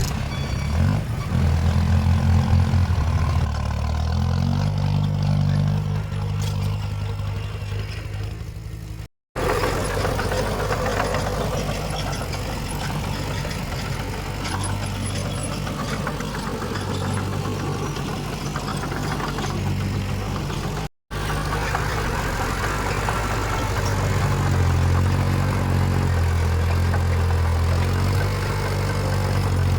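Heavy diesel earthmoving machinery running, the engine speed rising and falling. The sound drops out briefly twice.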